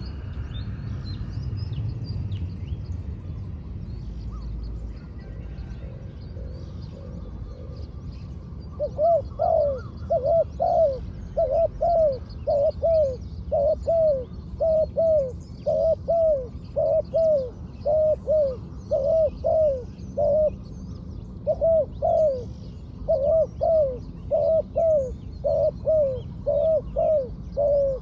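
Spotted dove cooing: from about nine seconds in, a long run of loud, repeated arching coo notes in short groups, over faint chirps from other small birds.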